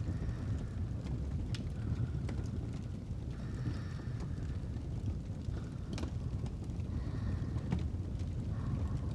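Fireplace ambience: a steady low rumble of burning logs with a few sharp crackling pops, and soft slow breathing rising and fading every second or two.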